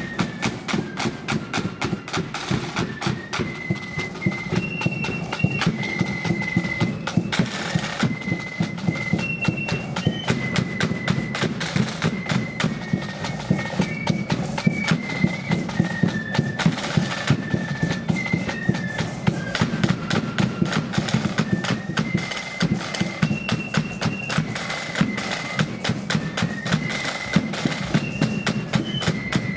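Marching flute band playing a march: flutes carry a high melody over rapid snare drumming and a steady bass drum.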